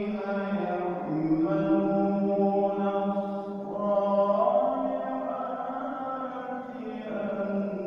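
Qur'an recitation in the melodic tilawah style: a single reciter's voice holding long, ornamented notes that step down in pitch about a second in, climb again around the middle, and fall once more near the end.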